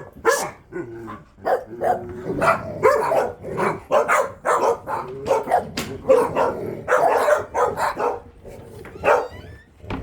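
A pack of dogs barking excitedly together, overlapping barks and yips.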